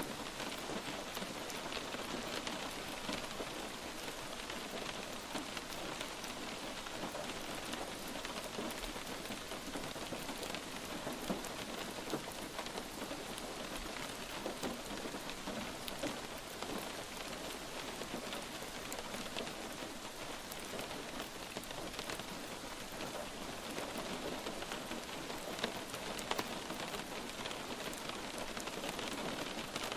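Light rain falling steadily, a dense patter of drops on a surface.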